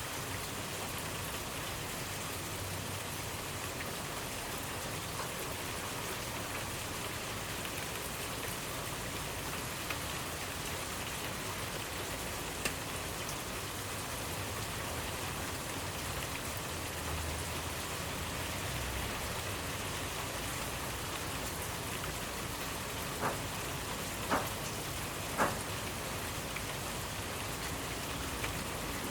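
Steady rainfall: an even hiss of rain on surfaces, with a few louder single ticks of drops near the end.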